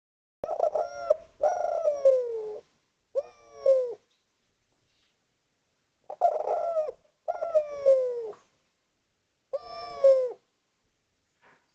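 Spotted dove (derkuku/tekukur) cooing loudly, in its wild-style 'ngalas' call. It gives two three-note phrases a few seconds apart, and the long middle note of each slides downward.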